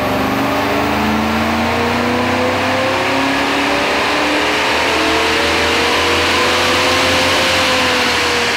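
1999 Holden VT SS Commodore's 5.0-litre V8 running loud under load on a chassis dynamometer, with the rear tyre spinning the rollers. The revs climb steadily, then level off and ease slightly near the end.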